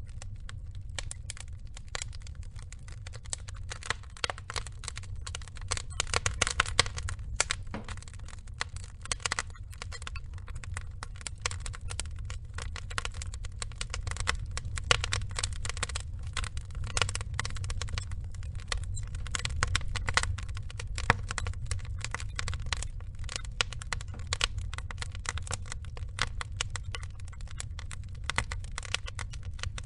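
Log fire burning, crackling: a dense, irregular run of sharp pops and snaps over a steady low rumble.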